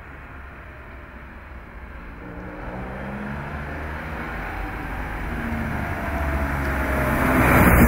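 A 1969 Porsche 911 T's air-cooled 2.0-litre flat-six engine drives toward the listener and passes close by. It grows steadily louder from about two seconds in and is loudest right at the end as the car goes past.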